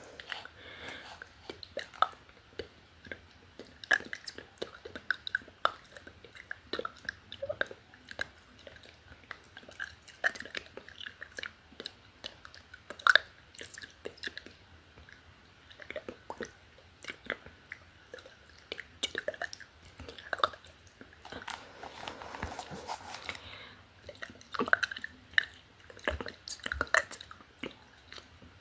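Close-miked ASMR mouth sounds: irregular wet clicks and lip smacks, with breathy, unintelligible whispering for a couple of seconds past the middle.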